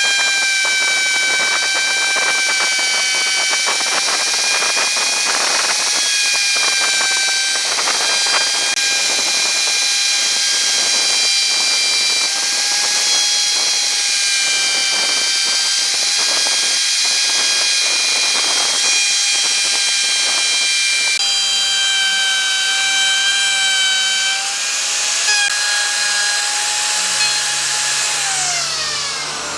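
Electric power tool running at speed with a steady high whine over a hiss, its pitch dropping as it winds down near the end.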